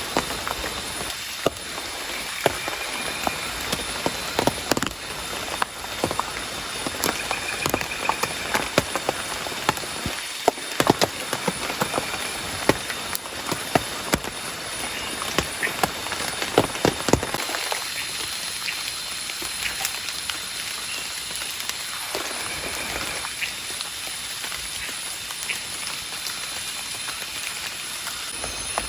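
Rain that is not heavy, heard from inside a wooden cabin: a steady patter with many drops and drips ticking, thickest in the first half. A short high call repeats every couple of seconds throughout.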